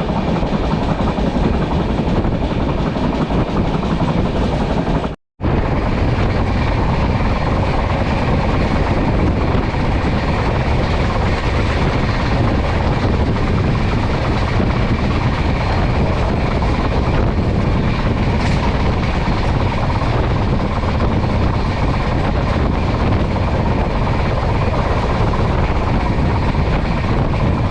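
Passenger train running at speed, a steady loud rumble and rail noise heard from inside the coach. The sound cuts out completely for a moment about five seconds in.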